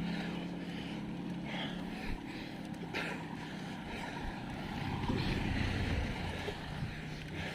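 A motor vehicle engine running steadily with a low hum, with wind noise on the microphone. A louder low rumble swells about five seconds in, like a vehicle passing.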